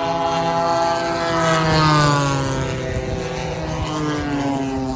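Propeller-driven RC warbird model plane making a fast fly-by. Its engine and propeller note grows louder to a peak about two seconds in, then drops in pitch as the plane passes and draws away.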